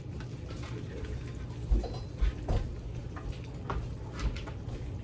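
Kitchen handling noise: a few dull knocks and light clicks over a steady low hum.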